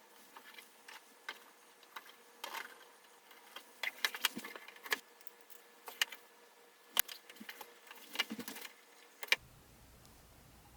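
Small parts and packaging of an HO-scale model train set being handled: scattered clicks, taps and short rustles, busiest in the second half, stopping about nine seconds in.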